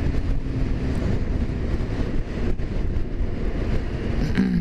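Motorcycle running on the move, with a steady engine rumble and wind noise on the rider's microphone.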